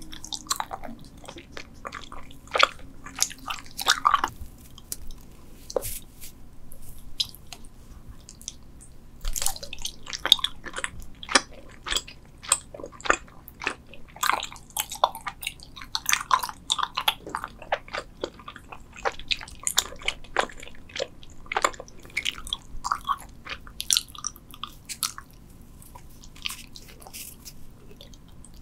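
Close-miked chewing and biting of Trolli gummy spider candies: a rapid run of short mouth clicks and smacks, thinning out for a few seconds in the first third and again near the end.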